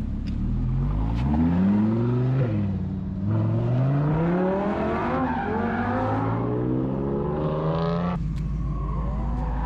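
A car engine revving hard as the car accelerates away, its note climbing and dropping back several times as it shifts up through the gears. About eight seconds in the sound changes abruptly to a steady low idling rumble.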